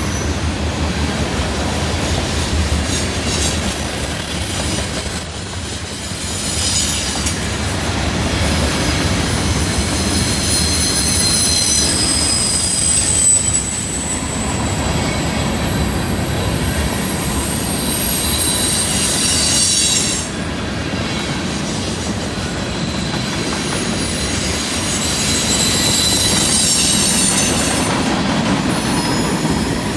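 Freight cars of a long mixed freight train rolling past on a curve: a steady rumble of wheels on rail, with high squeals that come and go from the wheel flanges rubbing the curved rail.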